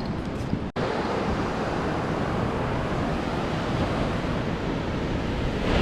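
Ocean surf breaking and washing up the beach, with wind buffeting the microphone. The sound drops out for an instant a little under a second in.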